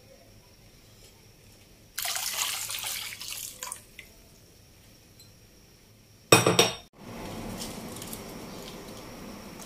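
Tamarind broth poured from a dish into a wok of water, splashing for about two seconds. A short, sharp, loud noise follows a couple of seconds later, then a steady hiss.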